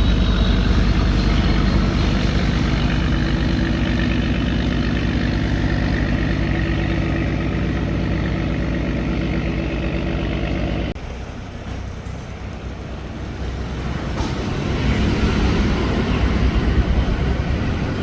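Boat engine running steadily with a low, even throb; about eleven seconds in the sound drops off suddenly and a softer, noisier running sound builds up again.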